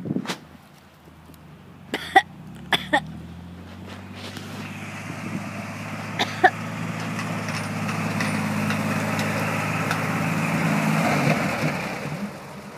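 1966 Chevrolet pickup's engine pulling hard in third gear for a burnout, growing steadily louder, with a steady hiss of rear tyres spinning on dirt over it. A few sharp clicks come early on, and the sound dies away near the end.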